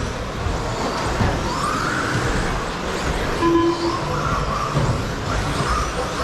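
Pack of 1/10-scale electric RC stadium trucks racing, their 13.5-turn brushless motors whining up and down in pitch as they accelerate and brake, over steady noise from the track.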